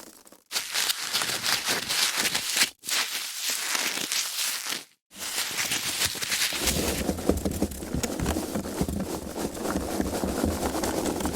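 Foam packaging being handled and rubbed: a dense crackling of many fine clicks, broken twice by brief silences. The last stretch is fuller, with more low handling noise under the crackle.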